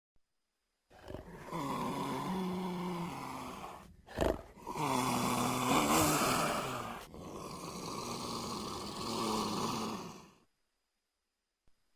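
Jaguar growling: three long, deep growls with a short, sharp louder burst about four seconds in.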